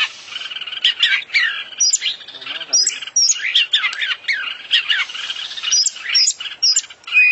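Oriental magpie-robin (kacer) singing a fast, continuous, varied song of sweeping whistles, short high notes and sharp chips, packed with phrases learned from other birds.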